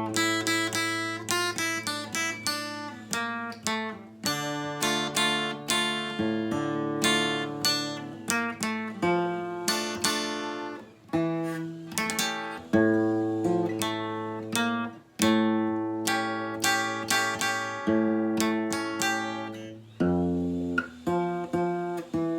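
Acoustic guitar playing an enka melody in a continuous run of plucked single notes over sustained bass notes.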